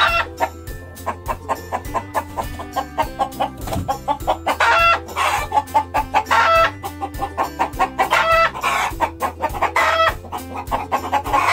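Recorded chicken calls, clucking and crowing, sounding several times over background music with a steady beat.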